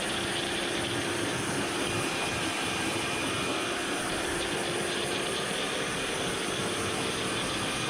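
Kärcher high-pressure washer spraying water: a steady hiss with a faint motor hum, cutting off abruptly at the end.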